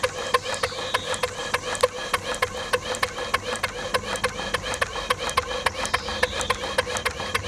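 2-inch scale Fowler Z7S steam ploughing engine running, its exhaust beats and motion making a rapid, even rhythm of sharp beats, several a second, over a steady hum.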